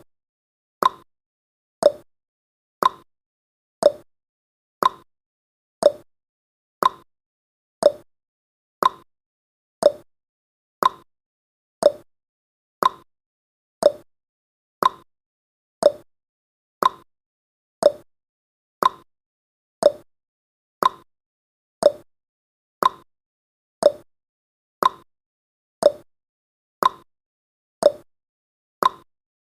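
Countdown timer's tick sound effect: one short, sharp tick every second, each fading quickly, with silence between.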